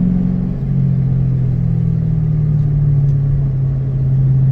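Straight-piped 2006 Mustang GT 4.6-litre V8 droning steadily, heard from inside the cabin while driving. The engine note drops a little about half a second in, then holds steady.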